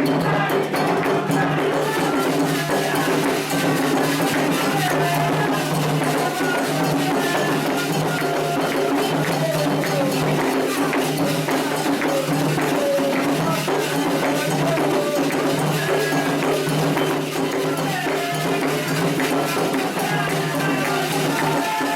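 Candomblé toque for Logun Edé: atabaque hand drums and a metal agogô bell beat a steady, dense rhythm, with voices singing the chant over them.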